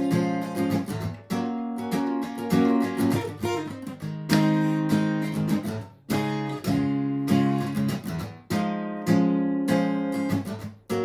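Martin GPCPA4 acoustic guitar strumming chords in a steady rhythm, with no singing over it.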